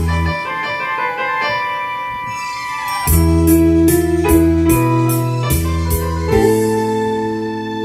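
Instrumental interlude of a Korean ballad (trot-style) backing track: electric piano or keyboard chords over a bass line, joined by a steady drum beat about three seconds in.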